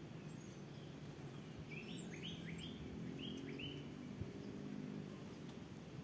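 A small bird gives a quick run of about six rising chirps, starting about two seconds in and lasting about two seconds, over a steady low background rumble.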